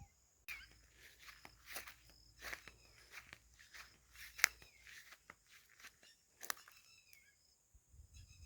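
Faint scattered clicks and rustling, with one sharper click about halfway through and a few short high chirps.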